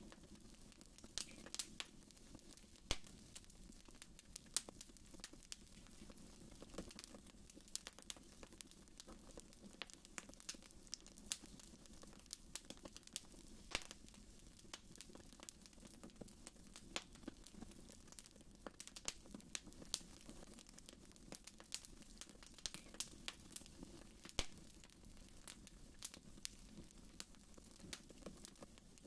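Wood fire in a fireplace crackling, with irregular sharp pops and snaps over a faint low rumble of the flames; a few pops stand out louder, about three seconds in, near the middle and near the end.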